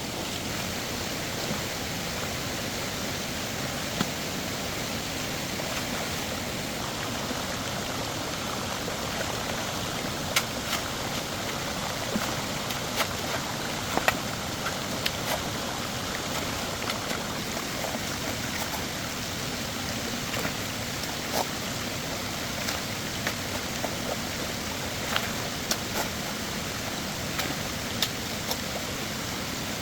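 Steady rushing like running or spraying water, with scattered light clicks and taps.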